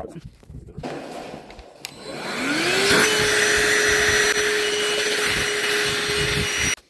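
A small electric motor spins up with a rising whine and settles into a steady whine over a loud rush of air, then cuts off abruptly near the end.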